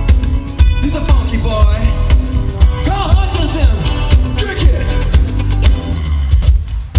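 Live rock band playing, a singer's voice over loud bass and drums with a steady beat.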